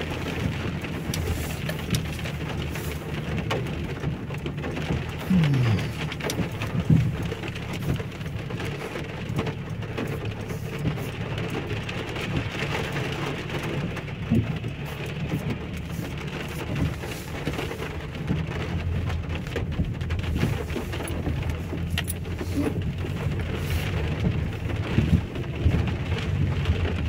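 Heavy rain pouring steadily, a dense patter of sharp drop impacts over a low rumble.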